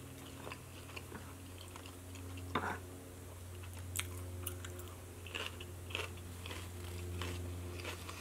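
Close-up chewing and biting of crisp salad, with scattered small crunches and wet mouth clicks over a steady low hum.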